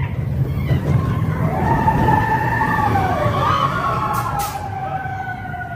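Mine-train roller coaster rumbling along its track, with long wavering high-pitched squeals over the rumble from about a second and a half in, fading near the end.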